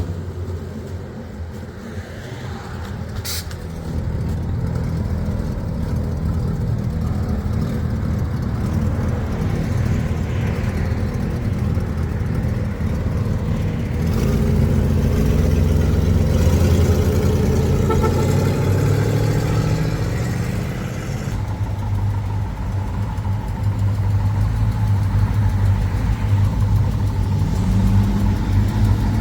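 Car engines running as cars drive off one after another, with engine pitch rising and falling as they pull away and pass, and one engine rising in pitch near the end.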